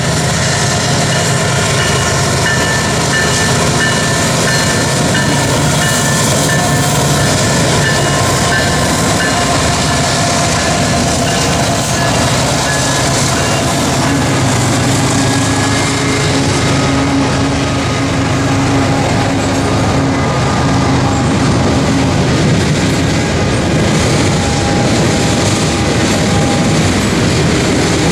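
A Union Pacific diesel locomotive leads a freight train past, engine running. Its string of hopper, tank and box cars follows, rolling by with a steady rumble of wheels on the rails.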